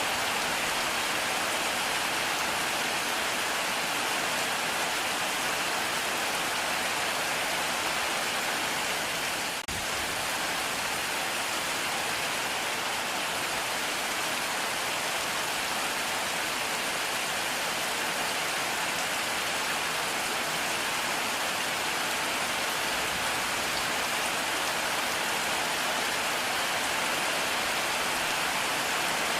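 Heavy rain falling steadily, an even, dense hiss of drops on surfaces, with a momentary dip in level about ten seconds in.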